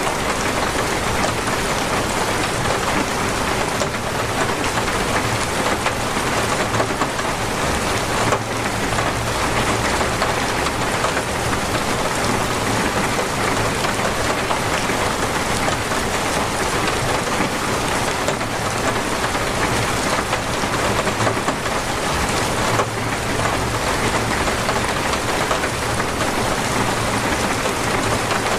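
Torrential rain pouring down steadily in a dense, even hiss of drops on surfaces.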